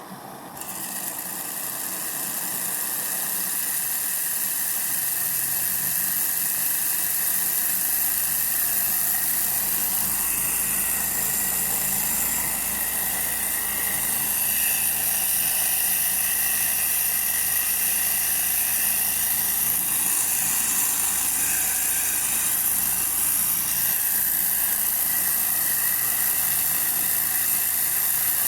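Model 16-cylinder Stirling engine running with a steady high-pitched whir, building in loudness over the first few seconds and then holding even.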